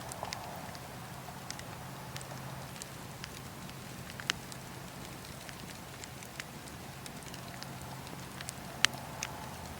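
Campfire of burning wood crackling, with irregular sharp snaps and pops over a steady low background. The loudest pops come about four seconds in and near the end.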